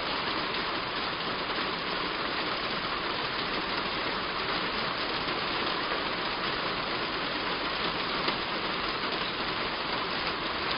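Heavy rain falling steadily on a roof: a dense, even patter of drops that neither builds nor eases.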